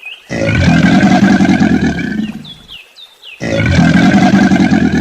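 Crocodile bellowing: two long, rough, pulsing growls of about two seconds each, with a few short high chirps in the gap between them.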